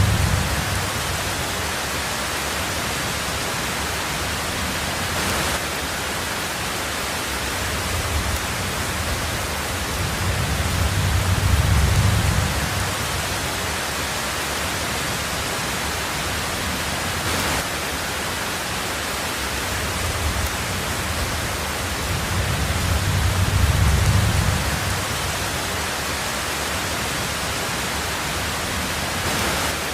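Heavy rain drumming steadily on a tin roof, an even hiss, with low thunder rumbles swelling and fading about a third of the way in and again about three-quarters through.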